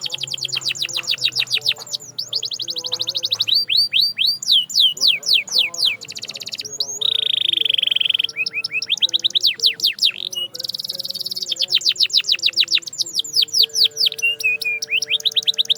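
Domestic canary singing: fast rolls of repeated falling notes, broken by a steady held note a little past the middle.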